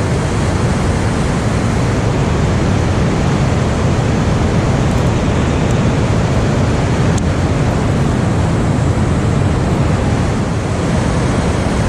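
Steady, loud rush of water pouring from an overflowing dam.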